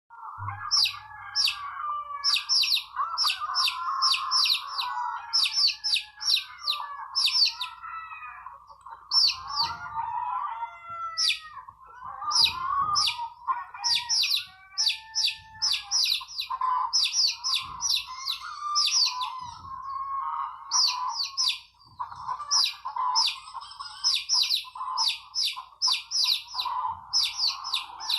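Many birds chirping and calling together. Rapid high trills repeat in quick bursts over a steady chatter of lower, warbling calls.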